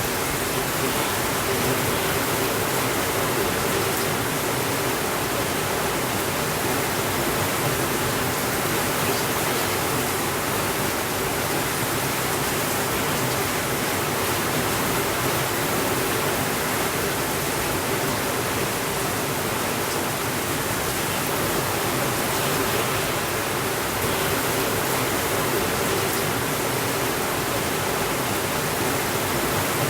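Steady rainfall, an even hiss with no thunder.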